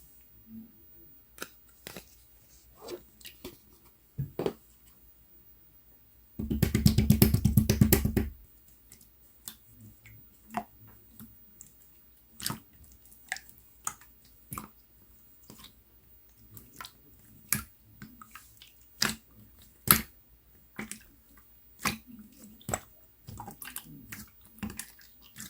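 Watery slime being squeezed and poked by hand, giving scattered sticky clicks and pops. About six seconds in comes a louder run of rapid squelching clicks lasting about two seconds.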